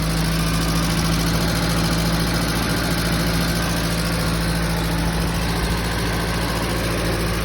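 ZMZ-405 fuel-injected four-cylinder petrol engine idling steadily, an even low hum.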